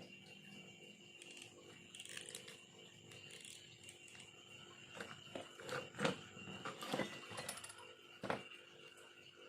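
Small knife carving bamboo: a run of short scrapes and clicks starting about five seconds in, over a faint steady high hum.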